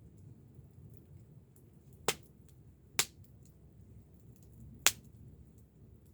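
Wood fire crackling, with three sharp loud pops about two, three and five seconds in over a low steady rumble and faint ticks.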